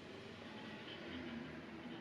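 Quiet room tone with no distinct event, only a faint low hum and a few faint indistinct traces of sound.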